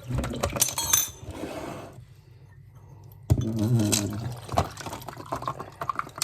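A drink being poured over ice in a glass, with ice cubes clinking against the glass. The sound drops away briefly about two seconds in, then starts again abruptly.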